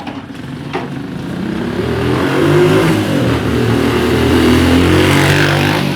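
A motor vehicle's engine, growing louder over the first couple of seconds and staying loud, with its pitch wavering, then easing off near the end.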